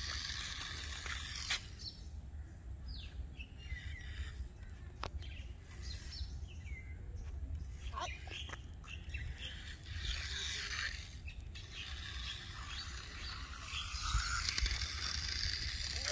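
Birds chirping here and there, with a few sharp clicks and wind rumbling on the microphone.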